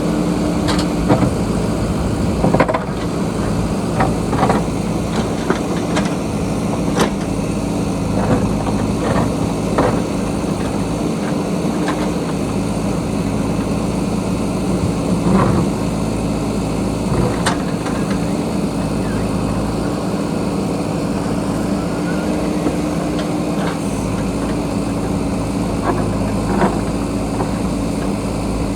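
JCB backhoe loader's diesel engine running steadily, with scattered knocks and clanks of the bucket working against rock and soil.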